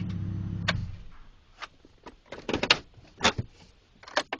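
Chevrolet Trailblazer engine running steadily, then shut off just under a second in. A string of sharp clicks and knocks follows.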